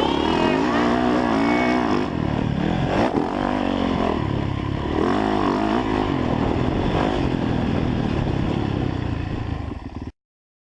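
Motocross bike engine revving up and down as the throttle opens and closes, pitch rising and falling over and over; it cuts off suddenly near the end.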